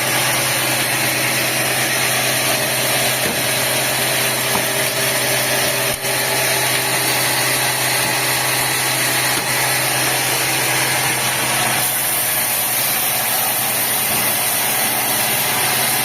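Sawmill machinery running steadily: a constant engine-like hum with a hiss over it, the hiss growing stronger about twelve seconds in.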